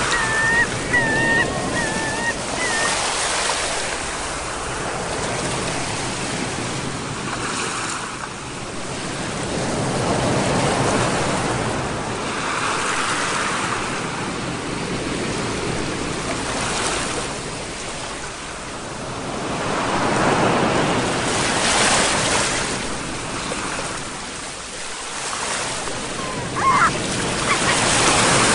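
Ocean waves breaking and washing in, swelling and easing every several seconds. A few short high calls sound in the first two seconds and once more near the end.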